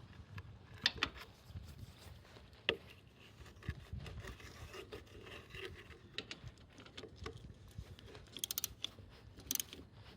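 Scattered light clicks and knocks of hand work, with a few dull thuds about four seconds in and a quick run of rapid clicks near the end.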